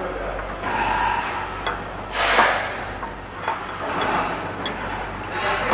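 Repeated rasping scrapes, about one every second and a half, with a few small sharp clicks between them, over a steady low hum.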